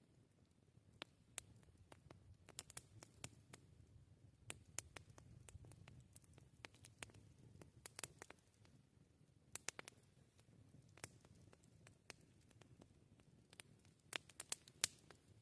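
Wood fire crackling: sharp, irregular pops and snaps, some in quick clusters, over a faint low rumble of the burning fire.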